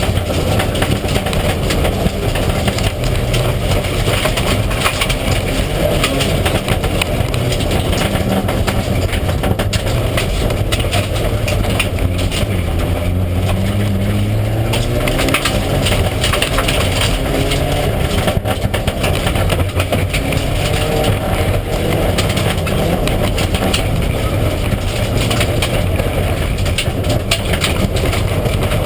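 Mitsubishi Lancer Evolution IX rally car at speed, its turbocharged four-cylinder engine revving up and down through the gears, over a constant rattle of gravel and stones striking the underbody.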